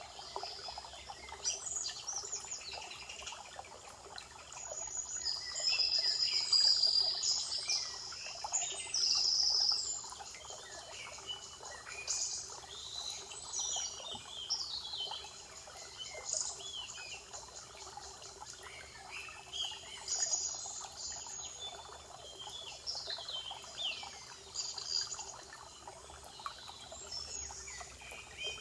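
Several songbirds singing and chirping together over a steady background hiss, with short trills and buzzy phrases, loudest at about six and nine seconds in.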